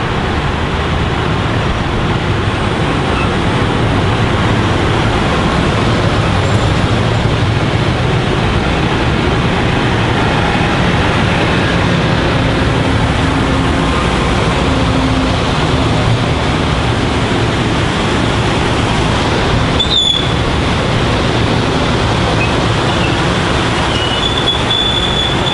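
Metro-North electric multiple-unit commuter train running past on the near track, a loud steady rumble of wheels on rail. There is a sharp bang about twenty seconds in, and a high wheel squeal starts near the end.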